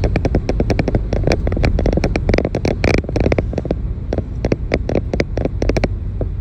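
A motor vehicle running with a steady low rumble, overlaid with dense, irregular clicks and crackles.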